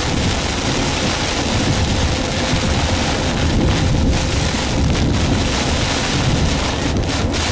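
Heavy rain beating on the roof and windshield of a moving car, a steady loud rush.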